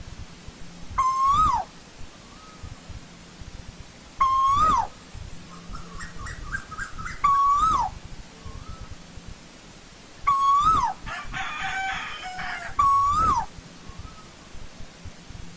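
Asian koel calling: five single whistled notes about three seconds apart, each holding a steady pitch, then lifting and dropping off at the end. Between the notes, around six seconds in and again around eleven seconds in, there is a quicker, busier chattering of other bird notes.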